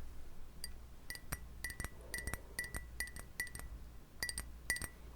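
Light, irregular taps on a glass vessel, about two or three a second, each giving a short high ring at the same pitch.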